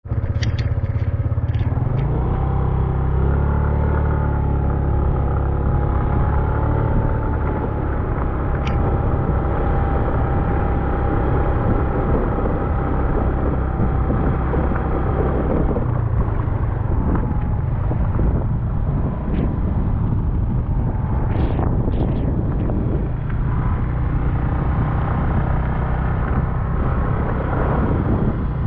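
Motorcycle engine running steadily while riding, over a constant low rumble of wind and road noise, with a few short clicks.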